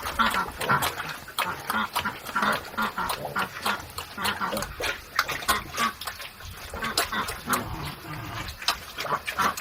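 Repeated short animal calls, with many sharp clicks or knocks scattered among them.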